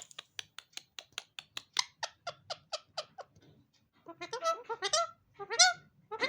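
Indian ringneck parakeet calling: a rapid run of short, sharp calls, about five a second, for about three seconds, then after a brief pause a few louder, longer squawks that bend in pitch.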